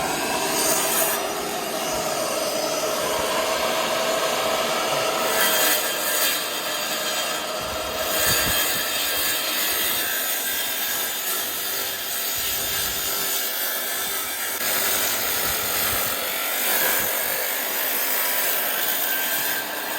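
Power saw cutting through a German fireclay (chamotte) slab, a steady loud cutting noise with a faint whine running under it.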